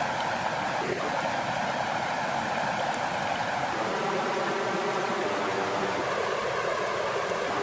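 Water flowing steadily, an even rushing and burbling.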